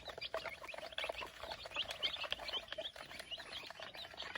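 A brood of baby chicks peeping: many short, high chirps one after another, over a scatter of faint clicks.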